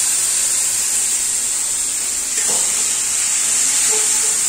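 Chopped vegetables and sauces sizzling in a kadhai over a gas flame: a steady hiss.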